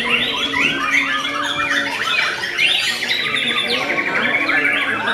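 White-rumped shama singing a continuous, varied song of quick phrases, with a rapid trill a little past the middle.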